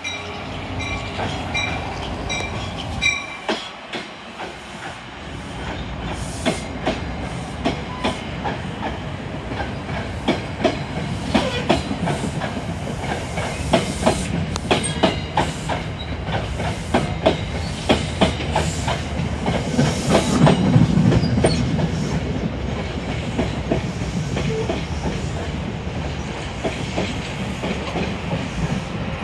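NJ Transit commuter train running past the platform: a repeated ringing tone for the first three seconds, then many sharp wheel clicks over the rail joints and a rumble that grows loudest about two-thirds of the way through.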